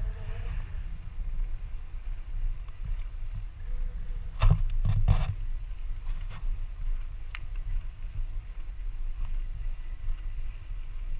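Mountain bike riding noise on an action camera: a steady low rumble of wind and tyres on the trail, with a short burst of rattling knocks about four and a half seconds in and a single click later.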